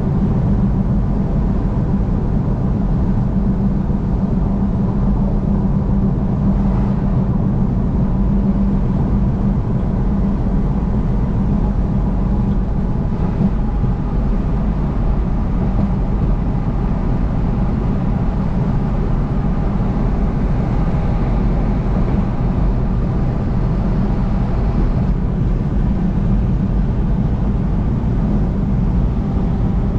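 Car driving on a highway: steady engine and tyre noise, with a low hum that fades about ten seconds in.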